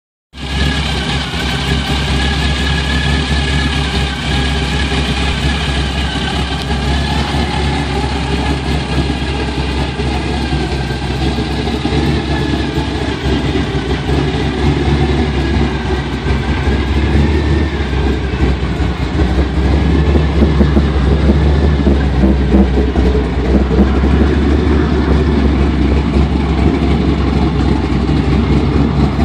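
Chevrolet 502 cubic-inch big-block V8 running at a steady idle, growing slightly louder in the last third.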